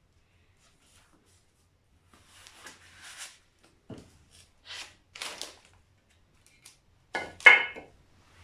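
Metal parts and tools being handled on a workbench: a few short scrapes and knocks, then a ringing metallic clatter about seven seconds in, the loudest moment.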